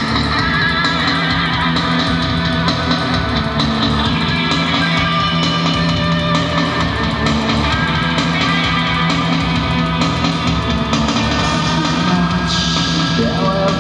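Live rock band playing an instrumental passage: electric guitar over bass and drum kit.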